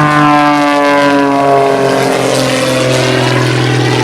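Light propeller airplane flying past, its engine note sliding steadily lower in pitch as it goes by.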